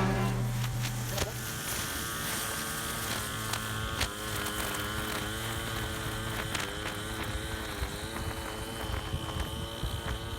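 Small gas engine of lawn equipment running, its pitch wavering up and down, over a low steady hum that fades out about halfway through.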